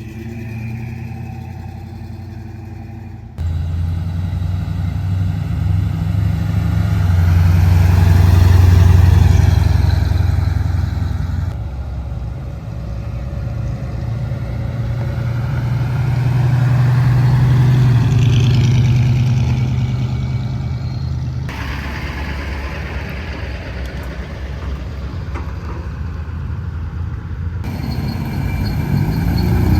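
Car engines rumbling loudly, deep and low, swelling louder and falling back twice. The sound changes suddenly three or four times where separate clips are joined.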